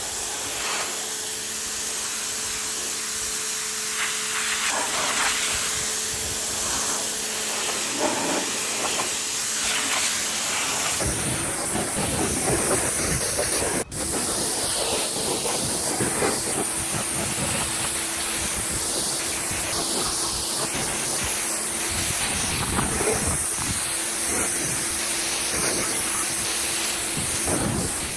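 Pressure washer spraying water onto a truck's body: a steady, strong hiss of spray over a low, steady hum. The sound shifts abruptly partway through.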